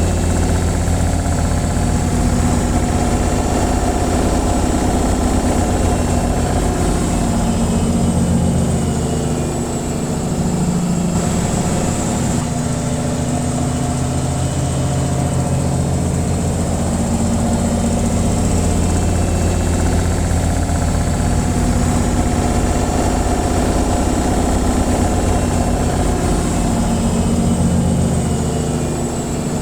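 Washing machine on its spin cycle: a steady low machine hum, dipping slightly in level about ten seconds in and again near the end.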